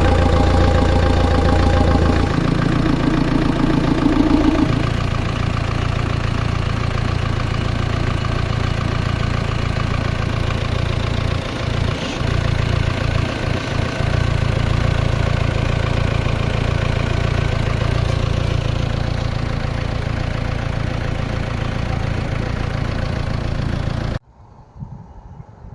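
Mahindra Thar CRDe four-cylinder common-rail diesel engine, freshly overhauled with new rings and a replaced piston, running steadily. A higher steady whine sits over it for the first two seconds and a mid tone to about five seconds in. The sound stops abruptly near the end.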